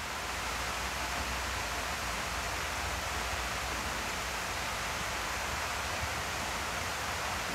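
Steady hiss of winter rain falling, an even wash of noise without breaks.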